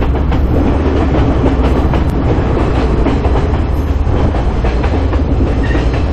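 Passenger train running steadily along the track, heard from an open carriage window: a continuous rumble with the wheels rattling on the rails.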